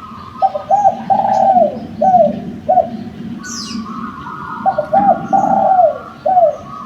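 Derkuku dove cooing: two loud phrases of several coos each, the first starting just after the start and the second about two-thirds in, each coo dropping in pitch at its end. Small birds chirp behind it, with one falling whistle about halfway.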